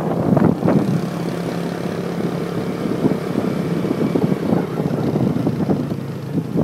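Motorbike engine running at a steady speed, a constant low hum, with wind buffeting the microphone.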